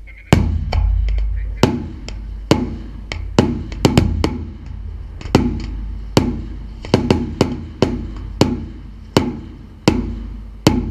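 Aerial fireworks bursting: a rapid, irregular series of sharp bangs, each with a short echoing tail, over a steady low rumble.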